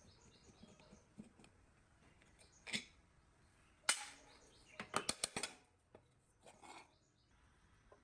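A few sharp clicks and knocks over quiet room tone. The loudest comes about four seconds in, followed by a quick run of clicks a second later.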